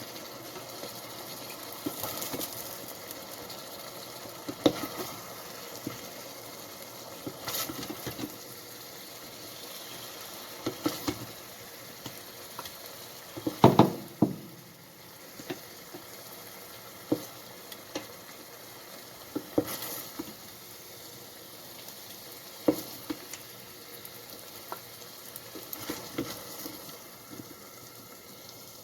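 Vegetables sizzling in an Instant Pot on sauté, with a utensil knocking and scraping against the inner pot now and then as they are scooped out; the loudest clatter comes a little before halfway through.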